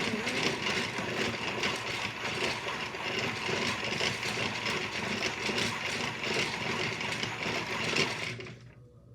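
Washmatic toy washing machine running with its door up, its small electric motor giving a steady rattling whir, then stopping abruptly near the end.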